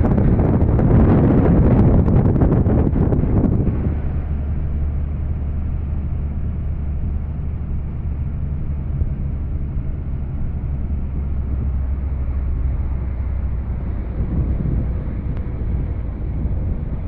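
Motorcycle engine running steadily while riding, with wind buffeting the microphone heavily for the first few seconds before it eases and the low engine hum comes through.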